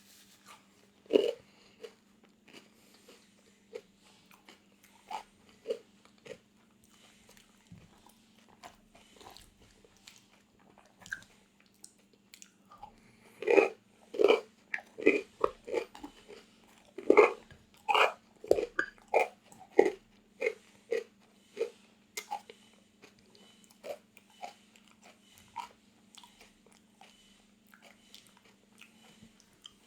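Close-miked eating of crunchy food: sharp biting and crunching, sparse at first, then a dense run of loud crunchy chewing through the middle that thins out again near the end. A faint steady low hum runs underneath.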